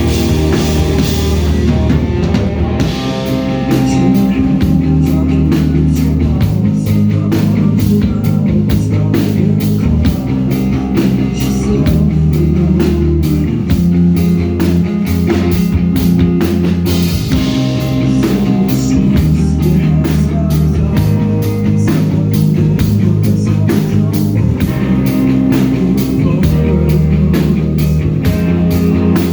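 Live rock band playing loud, with guitars, bass and a drum kit keeping a fast, steady beat.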